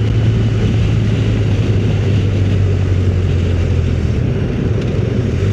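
Motorcycle engine running steadily at cruising speed, with heavy wind rush over the rider's microphone.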